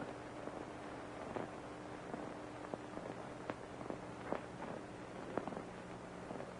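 Background noise of an old optical film soundtrack: steady hiss and a low hum, with scattered crackles and clicks at irregular intervals.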